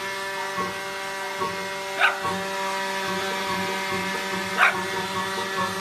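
Leaf blower running steadily, a whine over rushing air. A golden retriever puppy gives two short barks, about two seconds in and again near the end.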